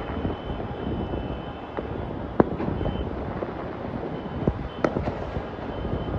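Scattered sharp cracks and pops of distant firecrackers and fireworks across the city over a steady low rumble, the loudest cracks coming about two and a half and five seconds in.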